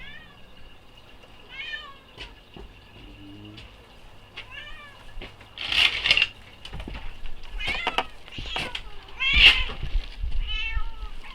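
A cat meowing repeatedly, about eight short meows, growing louder toward the middle and latter part, with the loudest near the end.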